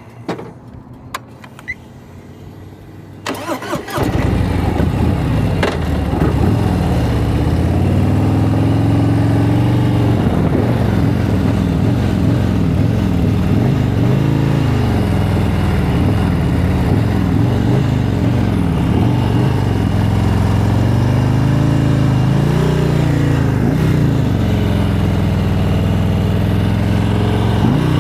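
Motorcycle engine starting about four seconds in, after a few clicks, then running at low revs with its pitch rising and falling again and again.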